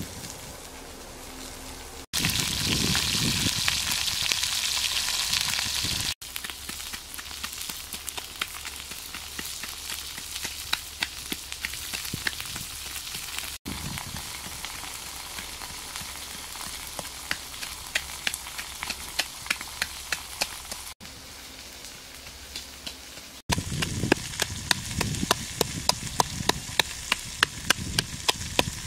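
Pig liver sizzling and crackling in a pan over a wood fire. Near the end, a pestle pounds chillies and garlic in a mortar, striking steadily about twice a second.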